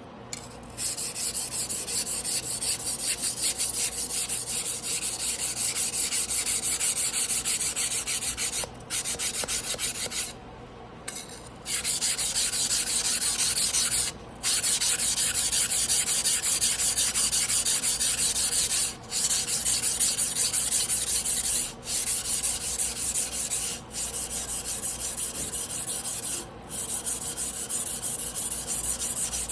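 A Tojiro damascus carbon-steel yanagiba blade being hand-sharpened on a whetstone: rapid, steady back-and-forth grinding strokes of steel on stone, broken by a few short pauses.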